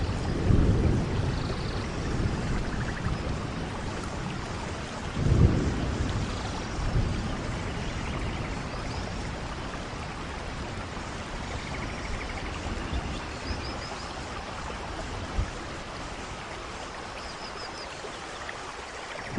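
Steady rain with thunder rumbling low, loudest just after the start and again about five seconds in, then fading to a softer rumble under the rain.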